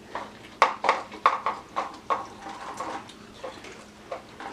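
Dry cheese crackers crunching and clattering: a quick, irregular run of crisp cracks, about three a second.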